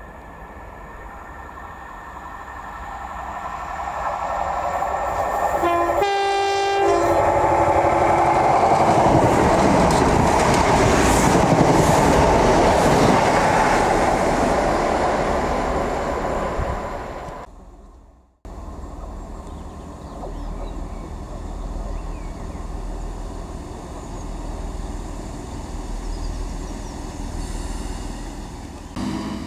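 Class 166 Turbo diesel multiple unit approaching and sounding a brief horn blast about six seconds in. It then runs loud and close, engine and wheels on the rails. After a sudden break the sound comes back as a quieter, steady diesel hum as the unit is at the platform.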